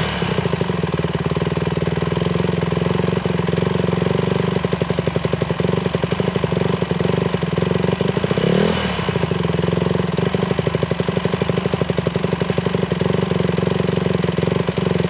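Small single-cylinder 150cc dirt bike engine running at low revs with a steady, even putter, and a brief blip of the throttle about halfway through.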